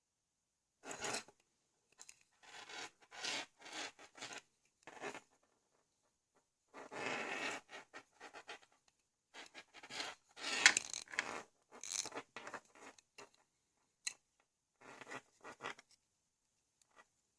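Plastic parts of a LEGO XL motor being handled by hand, in a run of short scraping and rubbing sounds with pauses between them. A sharp plastic click about two-thirds of the way through is the loudest sound, and there is another small click a few seconds later.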